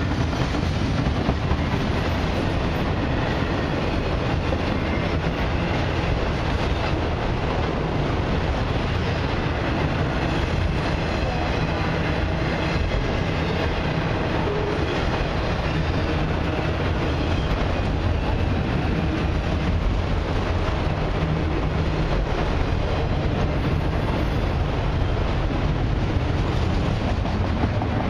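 A long freight train's autoracks and covered hopper cars rolling past close by: a steady, deep noise of steel wheels on the rails.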